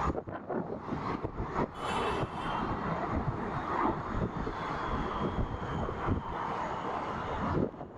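Jet airliner engines running, a steady roar with a faint high whine that sinks slightly in pitch, under gusting wind buffeting the microphone. The roar drops off suddenly near the end.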